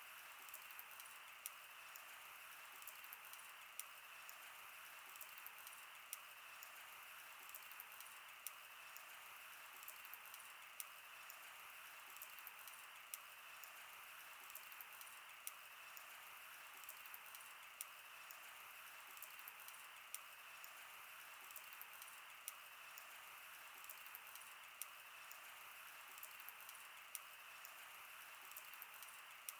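Campfire burning: a faint steady hiss with irregular sharp crackles, a louder pop about once a second and smaller ticks between.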